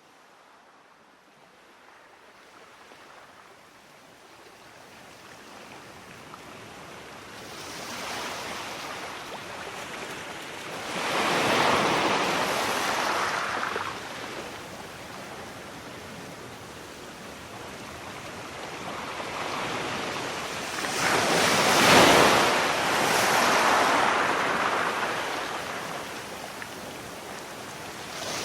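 Sea waves breaking and washing on the shore, fading in from silence at the start, with big surges of surf about a third of the way in and again after the middle.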